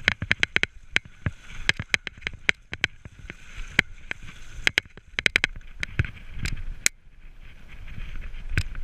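Mountain bike rattling over rough ground: irregular sharp clacks and knocks, some in quick clusters, over a steady hiss of tyres and wind.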